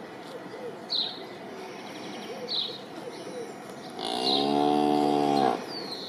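Holstein dairy cow mooing once, a single low call of about a second and a half near the end. Short high bird chirps sound a few times before it.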